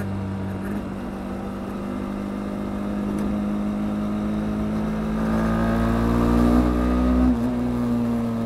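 Kymco Quannon 125's single-cylinder engine pulling under acceleration, its pitch climbing slowly and steadily. It grows louder once inside a road tunnel, then its pitch drops suddenly near the end.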